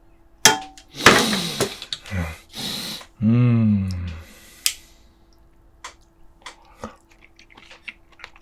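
A man eating saucy braised pork rib with kimchi. He makes loud wet slurping and sucking noises, then a drawn-out appreciative "mmm" that dips and rises in pitch. Soft chewing and lip smacks follow.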